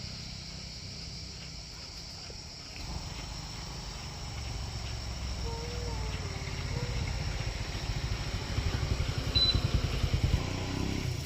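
A low engine rumble builds, pulsing fast, and is loudest shortly before the end before easing. A faint steady high insect trill runs beneath it.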